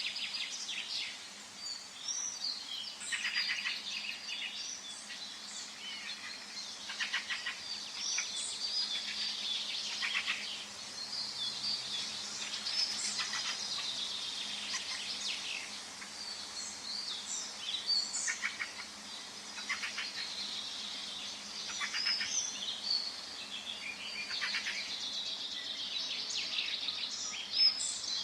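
Several songbirds singing and calling together in a forest: a steady mix of high chirps, whistled notes and rapid trills over a faint background hiss.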